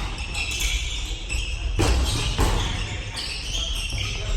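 Basketball game play on an indoor court: a basketball bouncing, with two sharp thuds about two seconds in, over a steady low rumble.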